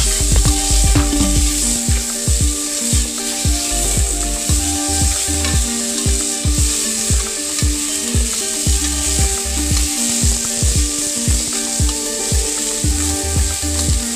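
Mung beans sizzling in a hot pan with a steady hiss, stirred and scraped with a spatula.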